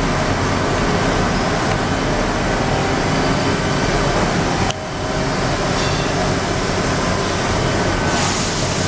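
Steady running noise of a CNC vertical machining center, with a low hum under it. A single sharp click comes about halfway through, after which the noise briefly drops and builds back.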